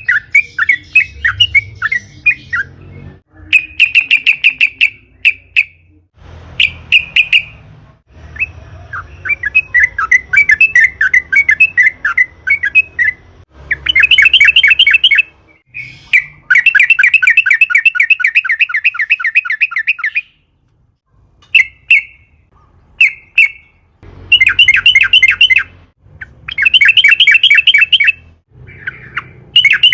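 Yellow-vented bulbul (trucukan) singing in rapid, bubbly phrases of quickly repeated notes, most lasting a second or two, with one long unbroken rolling run of about four seconds in the middle, the long 'ropel' song used as a lure to set other bulbuls singing.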